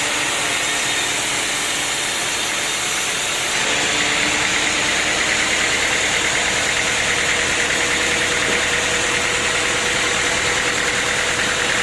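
An engine running steadily, getting a little louder about three and a half seconds in, with a fast even pulse after that.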